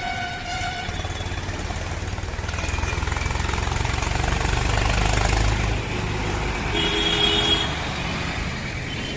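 Tractor engine running as it passes in street traffic, its low rumble swelling to loudest about five seconds in and then easing off. A vehicle horn sounds at the start and again briefly about seven seconds in.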